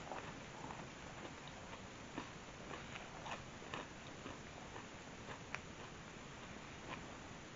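A person chewing a bite of flaky croissant pizza crust: faint, irregular crunchy clicks over a steady hiss.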